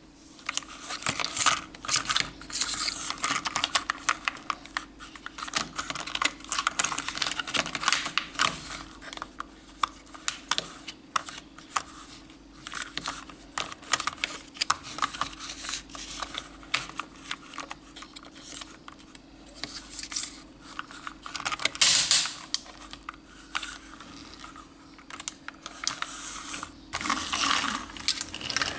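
Hard plastic toy vehicles being handled, a rapid irregular run of clicks, clacks and rattles, with a faint steady hum beneath.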